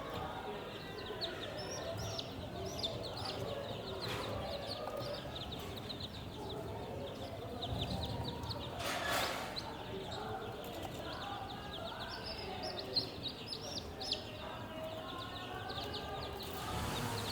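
Chickens clucking amid a steady chatter of many short, high cheeps, with a brief rustle about nine seconds in.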